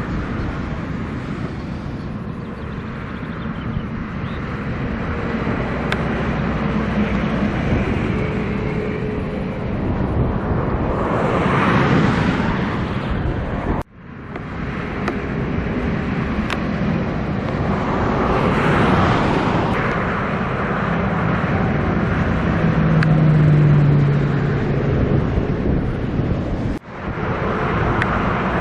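Scania truck on the road: steady engine and tyre noise that swells louder twice and cuts out sharply for an instant two times.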